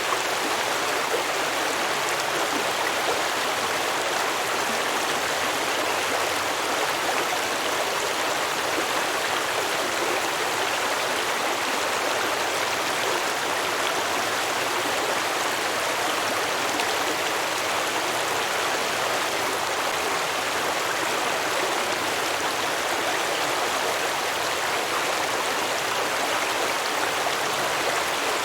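A rocky stream running and babbling steadily over stones, an even rushing splash with no breaks.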